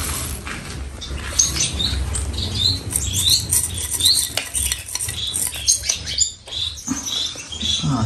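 Small cage birds in an aviary room chirping over and over, in short high calls. Scattered light clicks and taps run beneath them.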